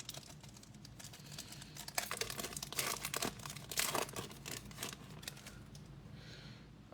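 Plastic card pack wrapper crinkling and being torn open by hand, a run of crackles that is busiest in the middle.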